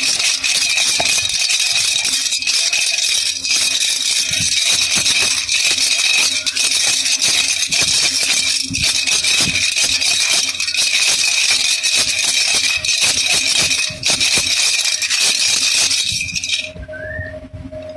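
Baby rattle (jhunjhuna) shaken continuously: a dense, fast rattling with a steady high ringing tone in it, stopping abruptly near the end. After it come a few short, faint rising whistle-like chirps.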